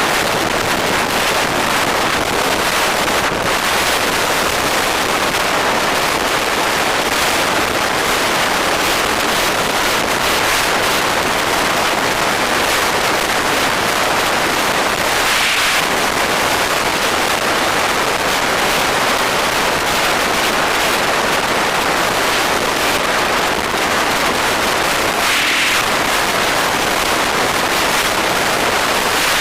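Loud, steady wind rushing and buffeting over the microphone of a moving motorcycle, with two short brighter swells about halfway through and near the end.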